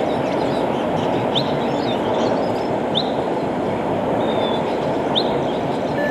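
Steady low rumble of a vehicle, with a bird giving short rising chirps four or five times.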